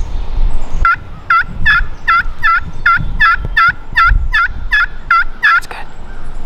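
A series of turkey yelps, about a dozen evenly spaced notes at roughly three a second, starting about a second in and stopping shortly before the end, over a low wind rumble.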